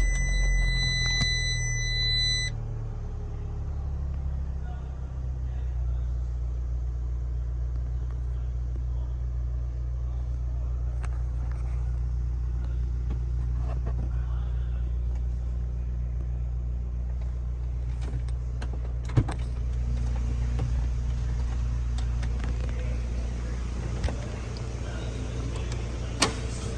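Fiat 500's 1.4-litre four-cylinder engine idling steadily, a low even hum. A steady high beep stops about two seconds in, and a few sharp clicks come near the end.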